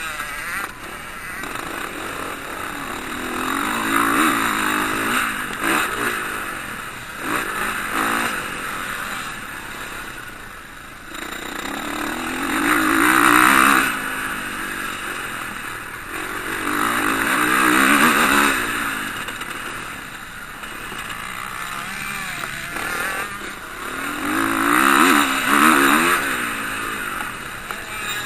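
Motocross bikes racing past, engines revving up and down between gear changes. The sound swells and fades about four times as bikes go by.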